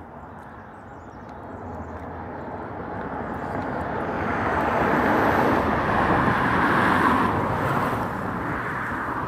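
A passing vehicle, heard as a broad rushing noise that builds over several seconds, is loudest about five to seven seconds in, then eases slightly.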